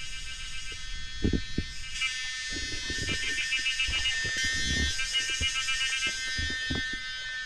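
A steady, high-pitched buzzing insect chorus, most likely cicadas, that pulses rhythmically in places. Irregular low thumps sound beneath it, the loudest about a second in.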